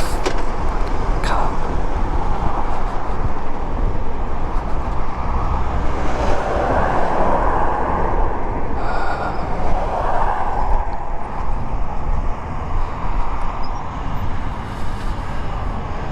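Riding noise from a moving Harley-Davidson Road King motorcycle: steady wind rush over a low engine and road rumble.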